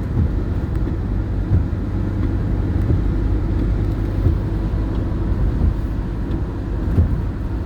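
Steady low road and engine rumble heard from inside a moving vehicle's cabin.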